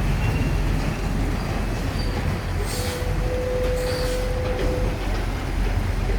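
Train running on rails with a steady low rumble, and a steady wheel squeal for about two seconds in the middle.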